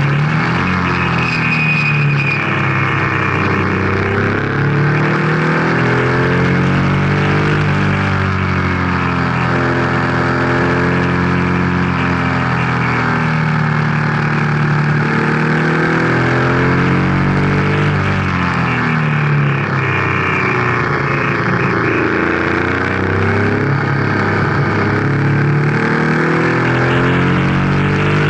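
Racing car's engine heard from its own onboard microphone, running at low revs as the car creeps along, its pitch rising and falling gently in slow swells every few seconds.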